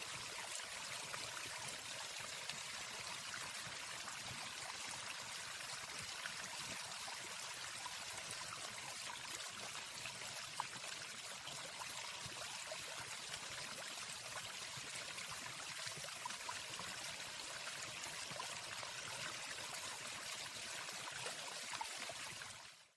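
Steady rushing of a waterfall, an even water noise with no birdsong, fading out quickly near the end.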